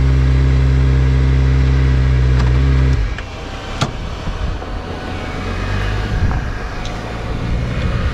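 Kawasaki ZX-25R's 249 cc inline-four, fitted with an Akrapovič exhaust, idling steadily, then cutting out abruptly about three seconds in as it is switched off. A lower uneven rumble with a few sharp clicks follows.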